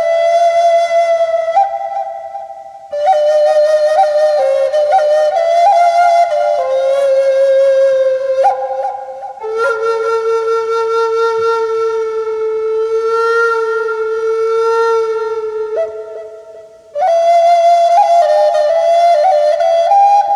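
Handmade wooden Native American flute (Utara Black Natura) playing a slow, breathy melody in phrases. A long held low note sits in the middle, and brief breath pauses separate the phrases.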